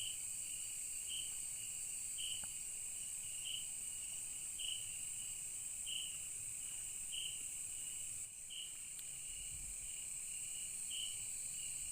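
Night chorus of rainforest insects: a steady high-pitched drone with a separate short chirp repeating evenly about once every second and a quarter.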